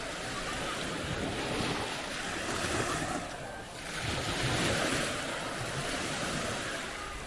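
Waves breaking and washing up the shore in a steady rush. The rush thins briefly a little past three seconds, then swells again with the next wave.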